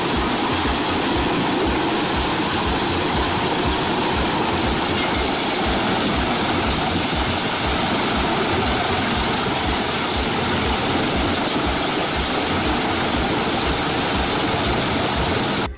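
Biber 92 wood chipper running under load, a loud steady rushing noise of wood being chipped, with a fast low pulsing beneath it. The sound cuts off abruptly at the end.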